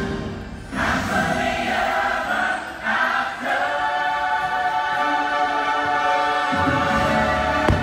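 Choral music from a fireworks show soundtrack, voices holding long sustained notes. The first firework bang comes at the very end.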